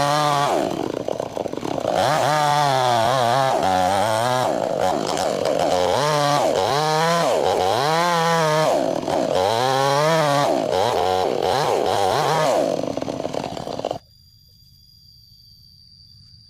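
Chainsaw ripping a log lengthwise: the engine note sags and climbs again over and over, about once a second, as the chain bites and clears in the cut. The sound cuts off abruptly near the end, leaving only faint high steady tones.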